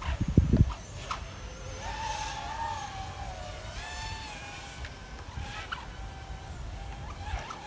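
Brushless motors of a 3-inch FPV quadcopter whining, the pitch rising and falling as the throttle changes. A brief low rumble comes about half a second in.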